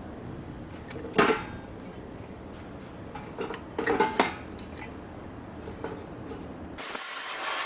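A few light metallic clinks and clanks, like utensils knocking against cookware: one a little over a second in, then a cluster of several around four seconds in.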